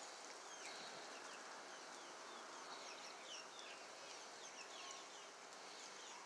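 Faint outdoor ambience: small birds chirping in many short, quick descending chirps over a steady hiss.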